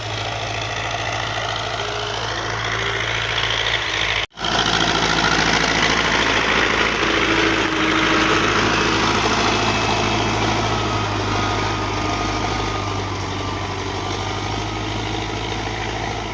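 Russian-made tractor's engine running steadily as it works the field, with a short cut-out about four seconds in.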